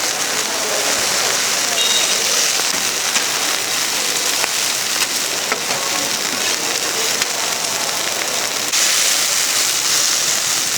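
Large squid-and-chive pancakes sizzling in oil on a hot griddle: a steady hiss that gets louder about nine seconds in.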